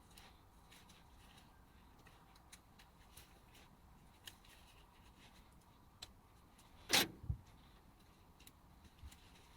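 Faint scattered clicks and taps of small handling noises, with one louder short scrape or rustle about seven seconds in, followed at once by a low knock.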